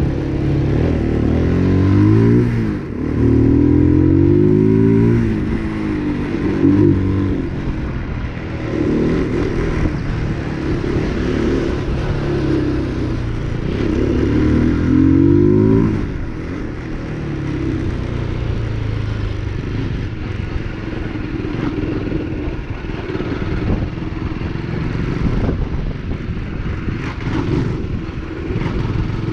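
A 2023 UM RS 125 motorcycle's 125 cc engine running and being revved, its pitch rising and falling about five times, then settling to a steadier note for the second half.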